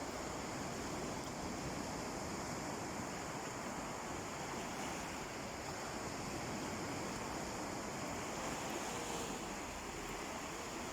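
Sea surf washing onto a beach: a steady, even rush of water without distinct breaking swells.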